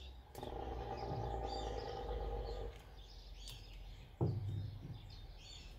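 Birds chirping in the background over low outdoor noise, with one short low knock or thud a little past four seconds in.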